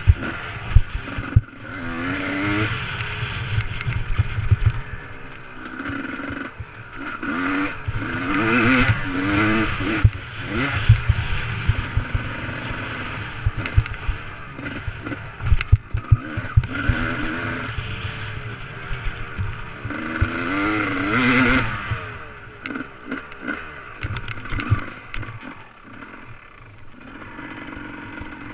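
Motocross bike engine revving up and falling back several times, with a steady noise and low clattering knocks throughout.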